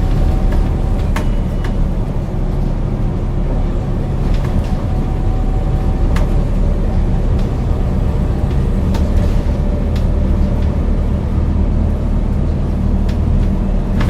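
Scania DC9 9-litre six-cylinder diesel of a 2001 Scania L94UB bus running at a steady engine speed, with a few sharp clicks and knocks scattered through it.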